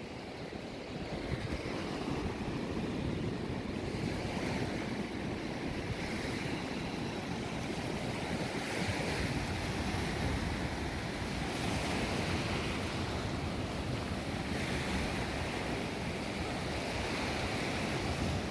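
Sea surf washing on the shore, swelling and fading every few seconds, with wind rumbling on the microphone.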